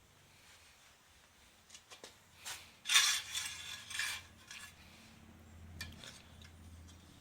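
Metal parts and tools clinking and clattering as they are handled, with a few light clicks, then a loud clatter about three seconds in that lasts roughly a second, and one more sharp click near the end.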